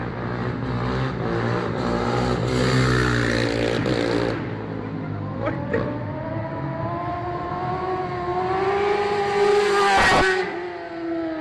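Motor vehicle engine accelerating, its pitch climbing for several seconds, then a loud rush about ten seconds in as it passes close by, with the pitch dropping away afterwards.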